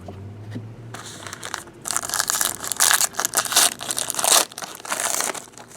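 Crinkling and crushing of a foil trading-card pack wrapper being handled, in irregular crackly bursts that grow louder after the first couple of seconds.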